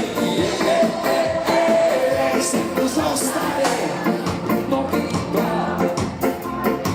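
Live ska band playing a song, full ensemble.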